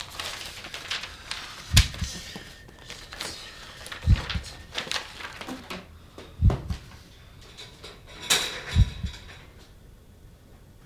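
A deep, regular thud about every two and a half seconds, like a slow heartbeat pulse, with scattered sharp clicks and rustling between the beats.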